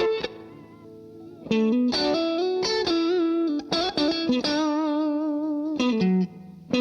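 Electric guitar played through a DemonFX Breaker Drive drive pedal, a lead line of single notes with a driven tone. After a short lull near the start, the phrase picks up about a second and a half in and settles on a long held note with wide vibrato.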